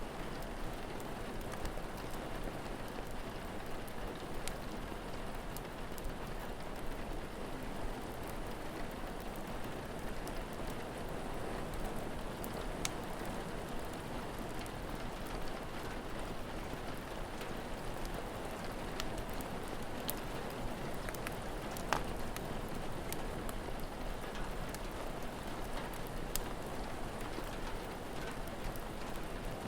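Steady rain falling, with scattered sharp crackles and pops from a wood fire, one louder pop about twenty-two seconds in.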